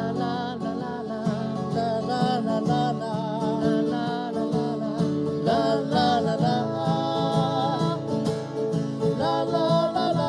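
Acoustic guitar strumming chords under a wordless sung melody, a continuation of the la-la-la refrain.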